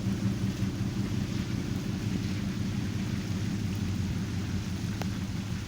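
Car engine idling steadily, a low even hum, with a single faint click about five seconds in.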